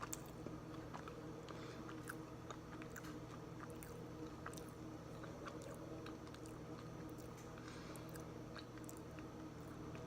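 Close-up chewing of a salted caramel protein bar: irregular small clicks of the mouth and teeth over a steady low hum.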